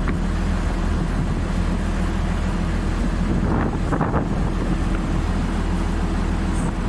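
Engine of a small river ferry running steadily, with wind buffeting the microphone.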